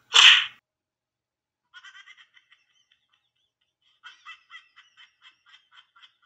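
Dubbed-in comedy sound effects: one sudden loud burst, then a fast run of short, high-pitched bleating or chattering pulses, about four a second.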